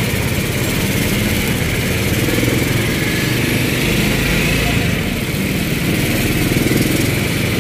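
Motorcycle engine of a tricycle running steadily under way, heard from the pillion seat right behind it.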